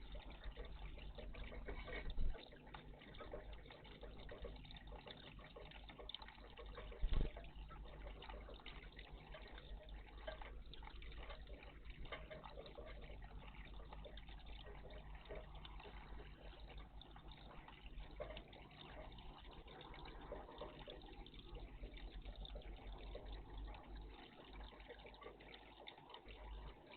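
Water splashing and trickling steadily in a garden bird bath, with two sharp knocks, about two and about seven seconds in.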